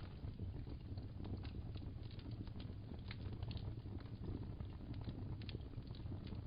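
Fireplace crackling: a steady low roar of flame with frequent small, irregular crackles and pops.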